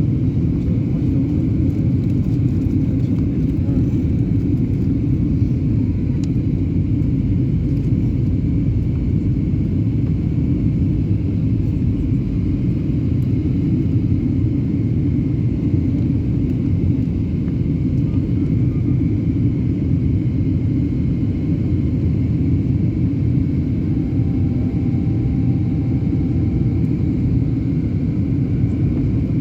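Aeroplane's steady low rumble of engine and airflow noise during a landing approach, with a faint steady high tone above it.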